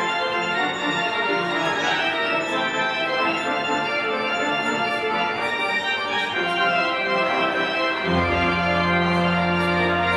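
The church's rebuilt organ playing sustained full chords, with a strong low pedal note coming in about eight seconds in and held.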